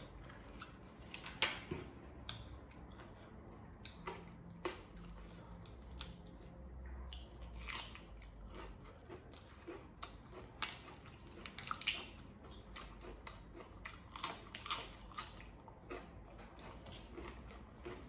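A person chewing and crunching food up close, with many short, irregular crisp crackles.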